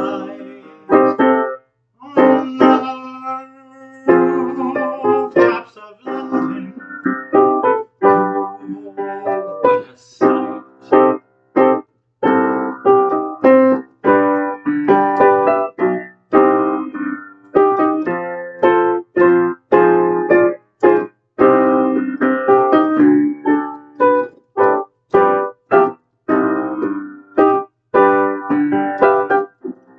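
Piano playing a chord accompaniment: chords struck one after another at a steady pace, many of them cut short with brief silences between.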